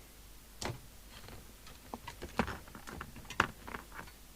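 Irregular clicks and knocks of a plastic CB radio hand microphone's housing being handled and fitted back together, loudest about two and a half and three and a half seconds in.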